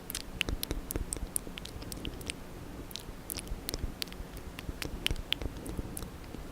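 Close-up wet mouth sounds: irregular clicks, smacks and squishes of a tongue and lips, several a second, as in ASMR ear licking.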